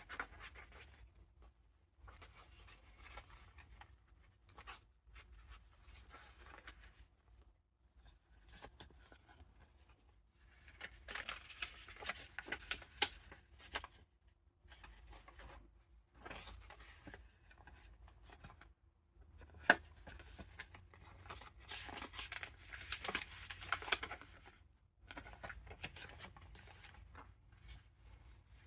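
Pages and paper ephemera of a handmade junk journal being turned and handled, the papers rustling and crinkling in uneven stretches. The rustling grows louder twice, and there is a sharp tap about twenty seconds in.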